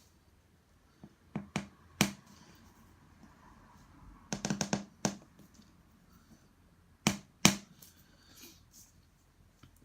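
Sharp clicks and taps of small Ugears plywood model parts being handled and knocked together: a few single taps, a quick rattling cluster around the middle, and two louder knocks later.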